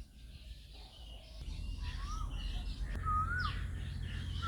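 Birds calling: short whistled notes that rise and then drop sharply, first about two seconds in and repeating, with higher chirps and a quick falling note above them. A low steady rumble runs underneath and grows louder partway through.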